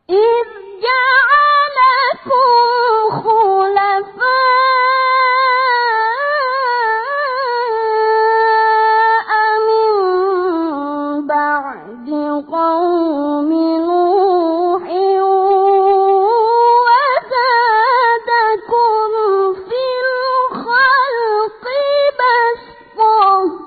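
A boy's high voice reciting the Quran unaccompanied in the melodic tilawah style, one long phrase with held notes and ornamented runs that rise and fall in pitch.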